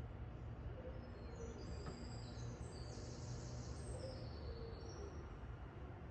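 Small birds chirping in a quick run of high notes, starting about a second in and thickest in the middle for a few seconds, over a steady low background rumble.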